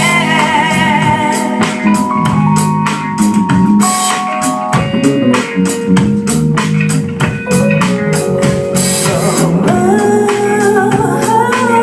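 Live band playing a song: drum kit hits over sustained instrument notes that step from pitch to pitch.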